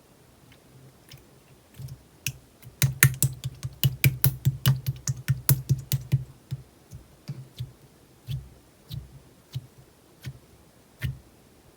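Clear slime being squeezed and poked, making sharp popping clicks: a few at first, a fast dense run in the middle, then slower single pops.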